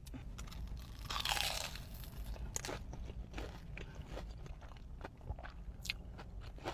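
A person biting into a crispy chicken nugget with a loud crunch about a second in, then chewing with many short crunches.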